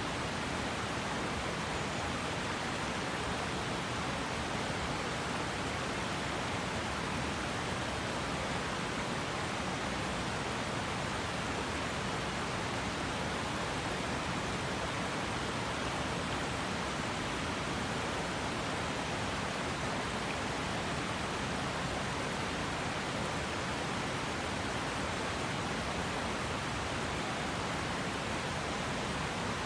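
Steady rush of a river's flowing water, an even hiss with no change.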